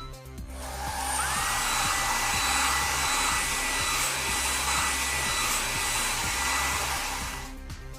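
A steady, loud hiss with a high whistle that slides up and then holds one pitch, cartoon sound effect over soft background music; it fades out near the end.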